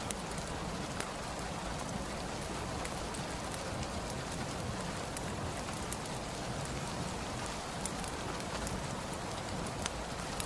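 Steady rain falling, with sharp crackles from a wood fire scattered irregularly through it.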